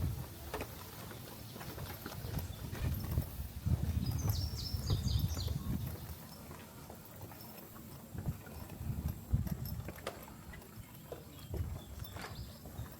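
Footsteps of a person walking along a nature trail, heard as a string of soft, irregular thuds. A bird calls a quick run of short high chirps about four seconds in, and a few more near the end.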